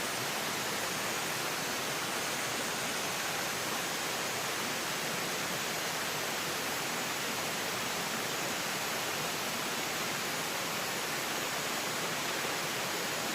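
Clear mountain stream rushing over rocks: a steady, even hiss of flowing water.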